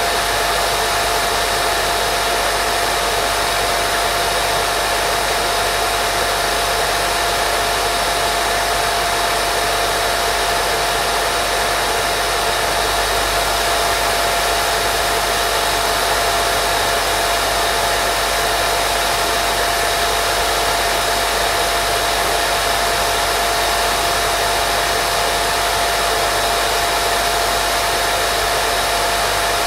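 Unbroken white-noise sleep sound for babies: an even, steady hiss with a faint constant tone running through it.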